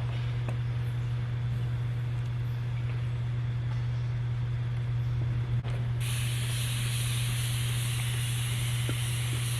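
Steady outdoor background noise: a constant low hum under an even hiss. After a brief dropout about six seconds in, the hiss turns abruptly louder and higher, as at an edit.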